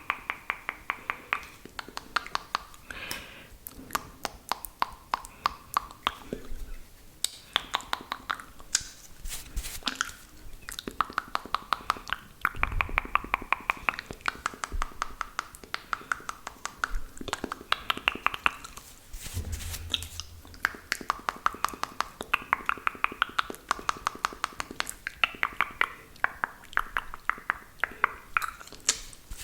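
Close-miked wet mouth sounds: saliva clicks and lip smacks in rapid, irregular runs.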